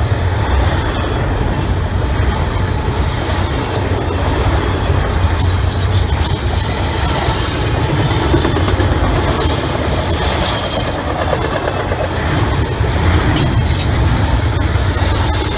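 Double-stack intermodal freight train's well cars rolling past at close range, a steady heavy rumble of steel wheels on rail. High-pitched wheel squeal rises over the rumble about three seconds in and again around ten seconds.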